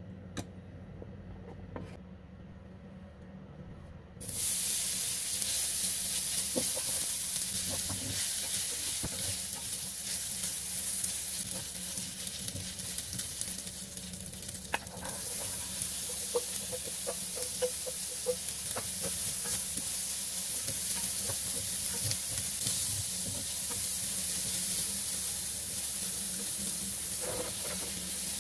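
Diced ham frying in hot oil in a stainless steel pan, stirred with a wooden spatula: a steady sizzle that starts suddenly about four seconds in, with small crackles. About halfway through it dips and picks up again as mixed vegetables are tipped into the pan.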